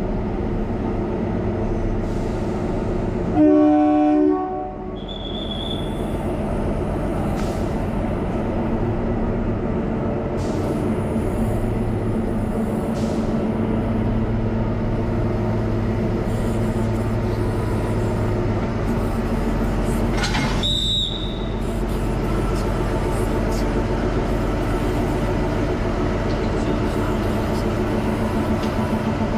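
Kalka–Shimla narrow-gauge toy train running with a steady rumble. Its horn sounds once for about a second shortly after the start, the loudest thing heard. Two brief high-pitched squeals come later, one soon after the horn and one past the middle.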